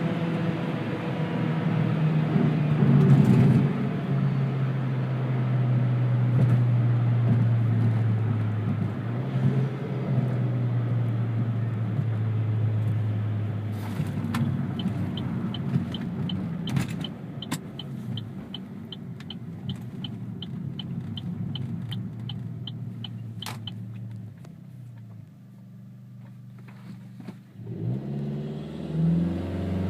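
2013 Chevy Sonic RS's 1.4-litre turbo four-cylinder with a new aftermarket exhaust, heard from inside the cabin while driving. The engine note drops a few seconds in, runs steadily, eases off to a low quiet stretch, then climbs again near the end as the car accelerates. A light, regular ticking at about three a second runs through the middle.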